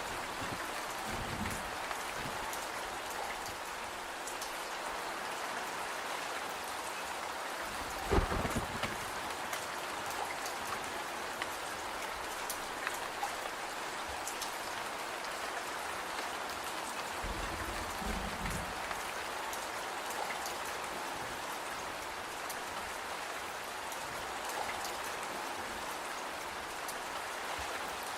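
Steady rain falling, an even hiss with fine scattered drop ticks. A single dull thump comes about eight seconds in, and a brief low rumble comes around eighteen seconds.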